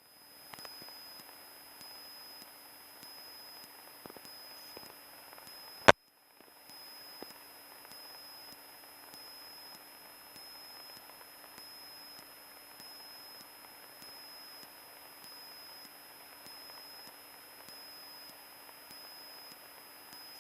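Faint static hiss of an air traffic control radio feed between transmissions, with a steady high whine and a low hum. A single sharp click comes about six seconds in, followed by a brief moment of silence.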